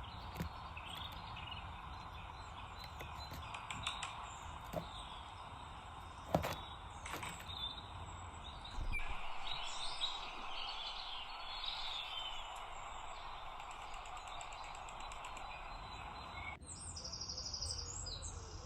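Small songbirds chirping and singing over a steady outdoor background hiss. There is a single sharp click about six seconds in. Near the end the background changes abruptly and a bird sings a quick run of repeated high notes.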